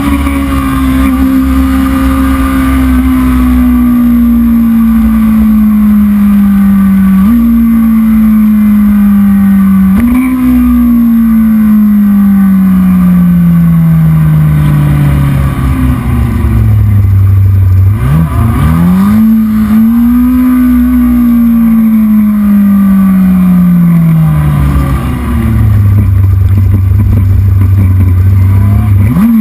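Heavyweight racing motorcycle engine running, its pitch sinking slowly and stepping up abruptly twice, about seven and ten seconds in. Past the middle it drops to a low steady note, rises and falls once more, and settles low again until a short blip at the very end.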